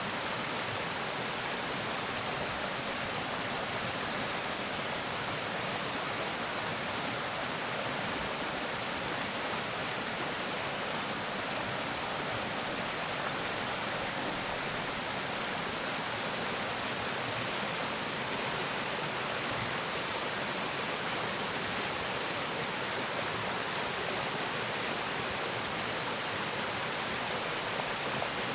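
Woodland stream flowing over stones: a steady, even rush of water.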